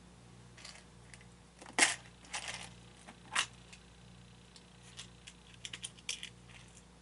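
Small hard parts clicking and clattering as they are picked through and handled, with a sharper knock about two seconds in and a quick run of clicks near the end.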